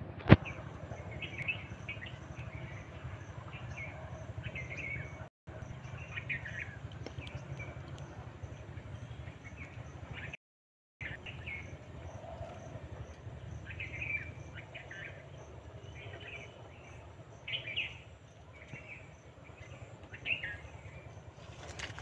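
Scattered short bird chirps over a steady low rumble, with one sharp click just after the start; the sound cuts out briefly twice.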